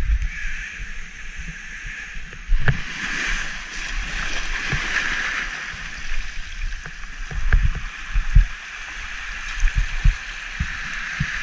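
Shallow surf washing and sloshing over sand and rocks, heard muffled through a GoPro's waterproof housing, swelling a few seconds in as a wave runs over the camera. Low thumps and knocks come and go throughout.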